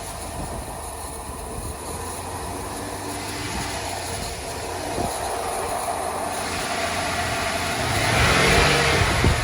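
2001 GMC Yukon's 5.3-litre Vortec V8 running during a cold-start warm-up, idling steadily, then revved once from about seven seconds in and dropping back near the end.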